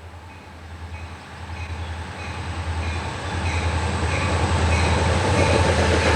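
Freight train led by CSX diesel locomotives approaching, the low engine drone growing steadily louder as it nears, with a faint high tone repeating about one and a half times a second.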